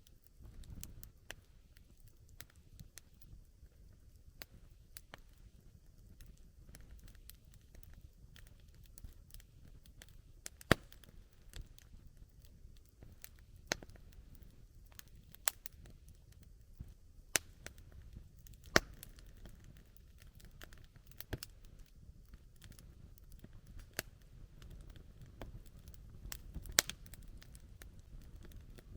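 Wood campfire burning, crackling with a steady scatter of small snaps and several sharp, louder pops over a low, soft rush of flame.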